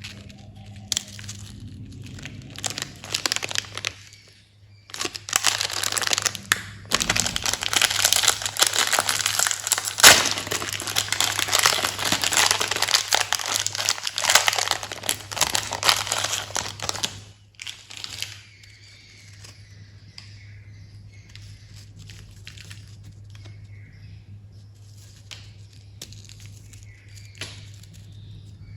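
Candy wrappers crinkling and tearing as candies are unwrapped. It is a dense, continuous crackle through the first two thirds, then drops at about 17 seconds to faint, scattered rustles. A steady low hum runs underneath.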